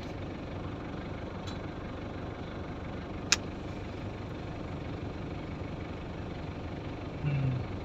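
Steady low running and idling of vehicle engines, with one sharp click about three seconds in.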